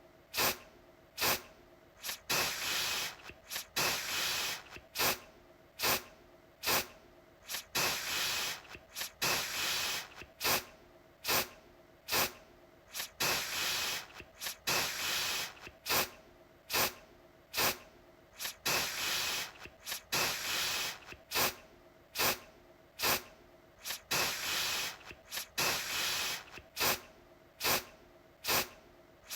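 Aerosol deodorant can spraying in repeated hissing bursts. Brief puffs are mixed with longer sprays of up to about a second, one after another.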